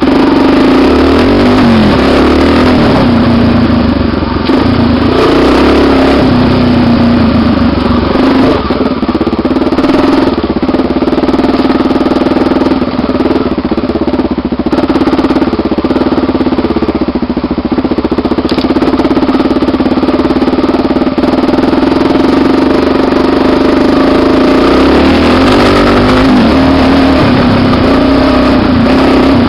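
Honda Tornado 250 motorcycle single-cylinder four-stroke engine running loudly, its pitch rising and falling as the throttle changes.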